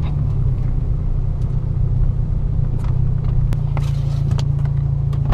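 Mazda MX-5 (NB) four-cylinder engine running with a low, steady hum inside the cabin at low speed. It becomes more even about three and a half seconds in, with a light click at that moment.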